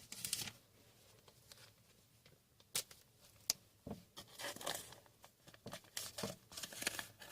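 Trading cards and foil pack wrappers being handled: faint rustling and crinkling, with a few sharp clicks about three seconds in.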